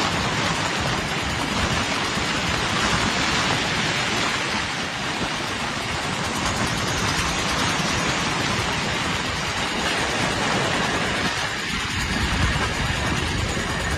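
A moving train running steadily, with a continuous rushing rumble of wheels on rails and no break or clear rhythm.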